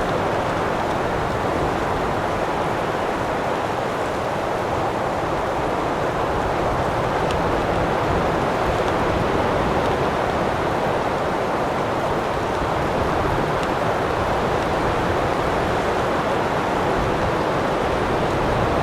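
Wind blowing hard and steadily: an even rushing noise that holds without a break.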